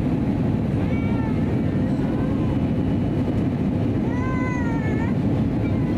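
Steady in-flight cabin drone of an Airbus A320neo from its CFM LEAP-1A engines and airflow, with a young child's high-pitched, whining cries over it: short ones about one and two seconds in and a longer, wavering one from about four seconds in.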